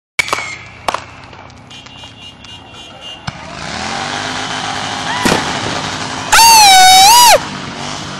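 Firework pops and sharp cracks, then a rising hiss. Near the end a short whistle sweep is followed by a loud, wavering whistle from a whistling firework lasting about a second.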